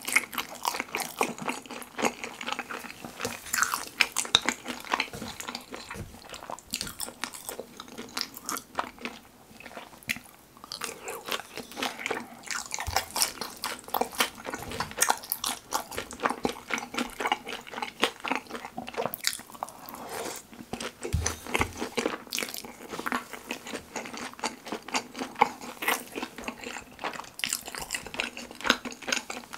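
Close-miked chewing of sauce-coated battered fried pork (kimchi pizza tangsuyuk): irregular crunching and wet, sticky mouth sounds.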